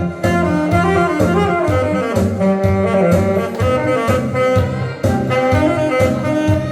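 Alto saxophone playing a melody over recorded accompaniment with a bass line and a steady beat.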